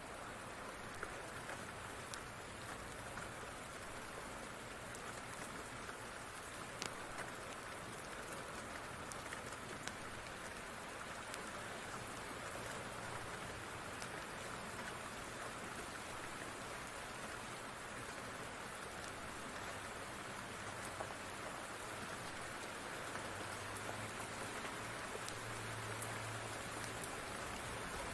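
Steady rain falling, with scattered sharp crackles from a wood fire. A low rumble of distant thunder builds near the end.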